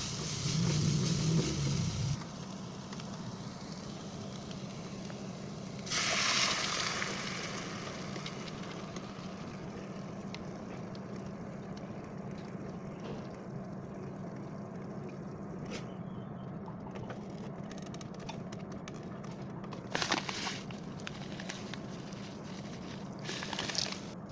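Food sizzling in a hot pan, with a louder burst of hissing about six seconds in that dies away over a couple of seconds. A steady low hum runs underneath, and there are two short louder sounds near the end.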